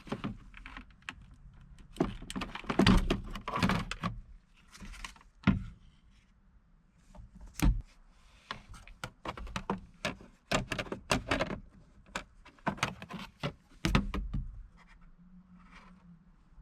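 A run of irregular clicks, knocks and short scrapes from hand work on the truck, with a few heavier thunks about two, five and a half, and fourteen seconds in.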